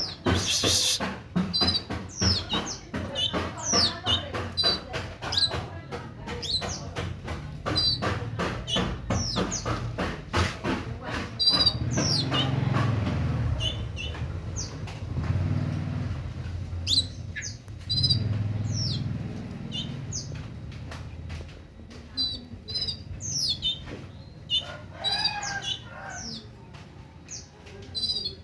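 Caged songbird chirping, with short notes and quick falling whistles. Through the first half these come amid rapid clicking, in keeping with the bird fluttering its wings.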